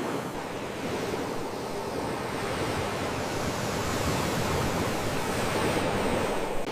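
Sea waves washing on the shore: a steady rushing wash that swells through the middle and falls away right at the end.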